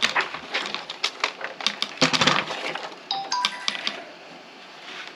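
Paper being handled, with crisp rustling and tapping that come in quick irregular strokes. About three seconds in, a short run of high chirpy notes steps up in pitch, then it goes quiet.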